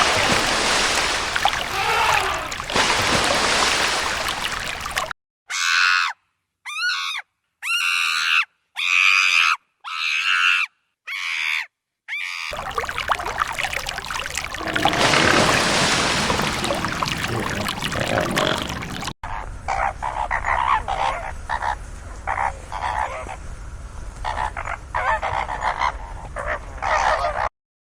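Animal calls from several recordings joined back to back. First a steady hiss, then six short pitched calls separated by silences, more hiss, and near the end a rapid series of short croak-like pulses.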